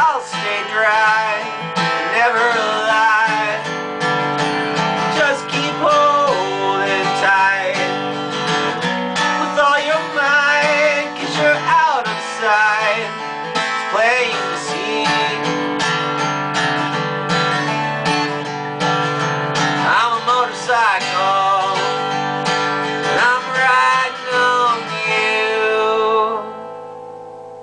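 Acoustic guitar strummed and picked in a song, dying away near the end.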